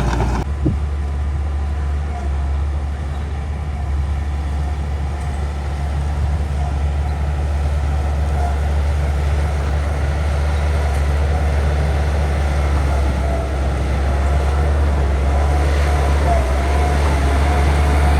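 Bulldozer's diesel engine running steadily under load, with a wavering higher whine that grows stronger near the end.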